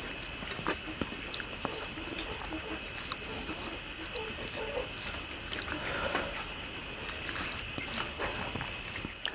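A person eating: chewing with scattered small clicks and smacks of mouth and food, over a steady, evenly pulsing high-pitched tone.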